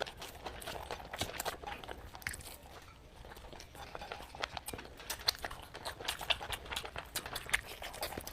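Close-up eating sounds: chewing and smacking of the mouth, with irregular wet clicks several times a second.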